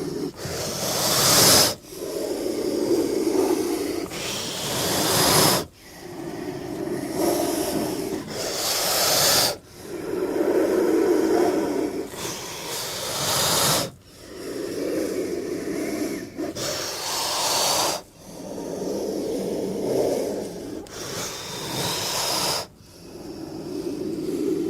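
King cobra hissing growl, repeated about six times in long breaths of roughly four seconds each. Each breath starts as a low growl and swells into a louder hiss before cutting off sharply.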